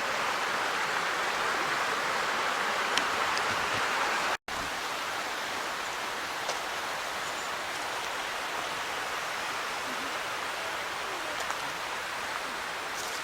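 Creek water flowing over rocks in a steady rush. The sound drops out for an instant about four seconds in, then continues a little softer.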